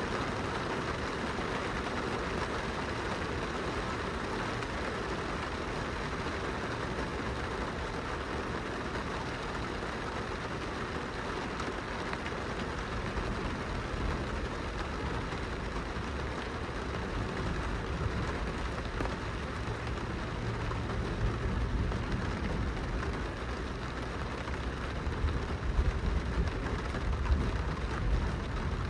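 Steady rain pattering on a glass window. A low rumble builds from about halfway through and is loudest near the end.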